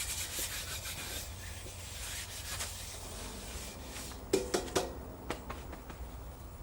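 Rubbing and handling noises on wood, with a few light knocks and clicks over a steady low hum.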